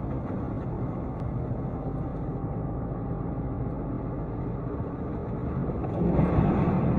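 Steady vehicle driving noise, a low rumble of engine and road, picked up by a dash cam. It gets louder about six seconds in.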